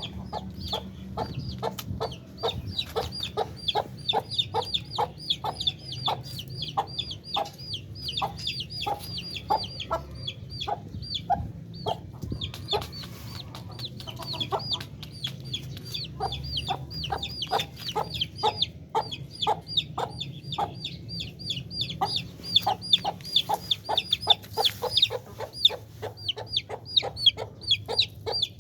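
Chickens calling: a continuous run of short, rapid calls, several a second, with a brief lull around twelve seconds in, over a steady low hum.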